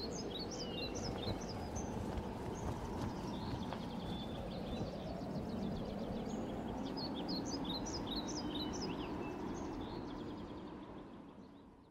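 Birds chirping, many short high chirps over a steady low background rush; it all fades out near the end.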